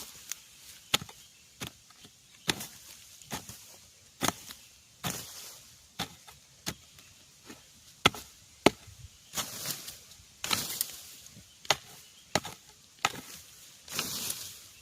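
Repeated chopping strikes of a digging blade into soil and roots to cut out a bamboo shoot, irregular at about one to two blows a second, with rustling between some of them.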